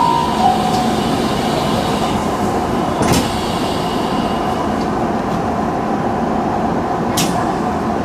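Electric commuter train running along the track, heard from inside the front cab as a steady rumble of wheels and running gear. There is a short steady tone at the start and two sharp clicks, about three and seven seconds in.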